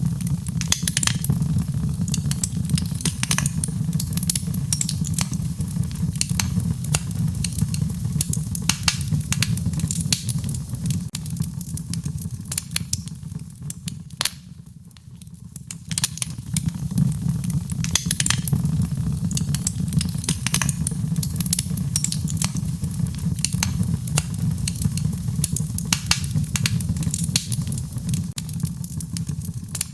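Fireplace fire crackling and popping, with dense irregular snaps over a steady low rumble. The crackles thin out for a brief lull about halfway through, then pick up again.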